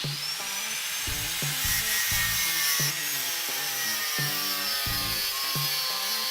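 Power tool cutting through a steel file, a dense rasping noise with a high whine that slowly drops in pitch, starting suddenly. Background music with a steady beat plays underneath.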